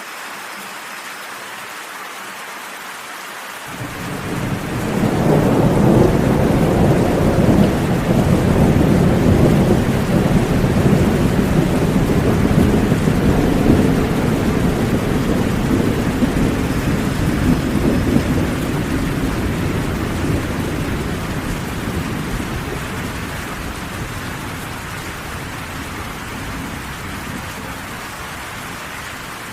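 Steady rain, with a long roll of thunder coming in about four seconds in: a deep rumble that swells quickly, holds for several seconds, then slowly dies away under the rain.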